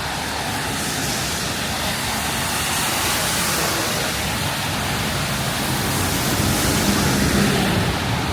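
Steady hiss of rain falling on the street, with a vehicle's low rumble swelling louder near the end.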